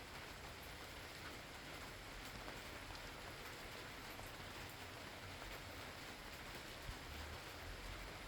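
Steady, fairly faint rain falling, with scattered individual drops ticking.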